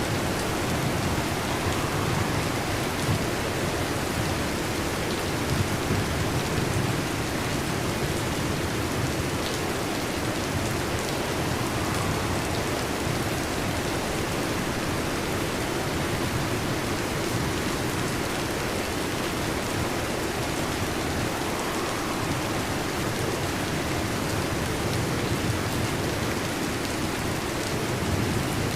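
Heavy rain falling steadily, a dense even hiss, with a low rumbling underneath.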